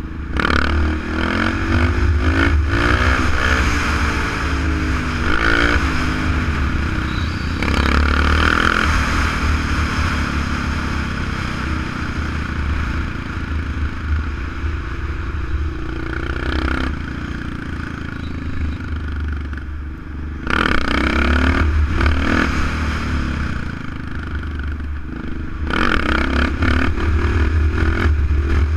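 Kawasaki KLR650's single-cylinder four-stroke engine under way, pulling hard several times with rising pitch and easing off between pulls, with wind rushing over the microphone.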